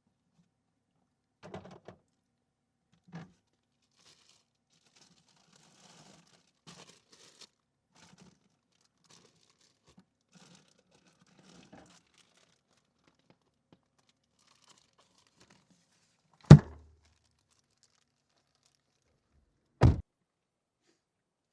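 Soft scattered rustling and crinkling, then two loud thumps about three and a half seconds apart, the first the louder.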